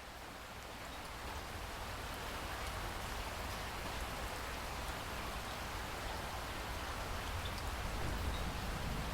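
Steady rain falling on foliage: a dense hiss of drops with scattered individual drop ticks and a low rumble underneath, slowly growing louder.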